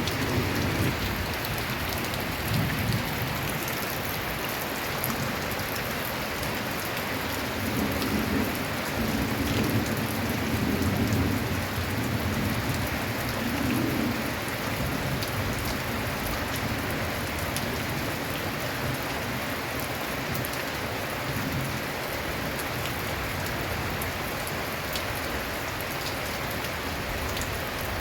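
Heavy rain drumming steadily on a corrugated tin roof. Low rumbles of thunder swell and fade in the first half.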